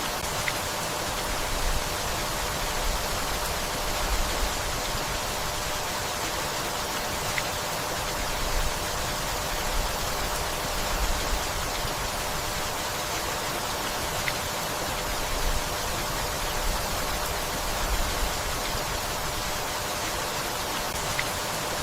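Steady rainfall, an even hiss, with brief low rumbles every few seconds.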